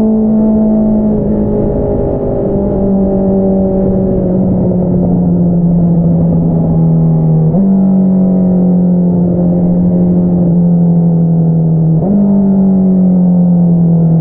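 2022 Honda CBR650R's inline-four engine running through an Akrapovič single-outlet exhaust, its note sinking slowly as the bike slows. The revs jump up sharply twice, about 7.5 and 12 seconds in, as on downshifts.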